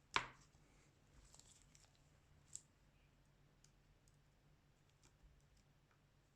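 Small hard clicks and taps of tools and parts being handled during a smartphone screen replacement: one sharp click just after the start, a faint rustle, and another click about two and a half seconds in, over near silence.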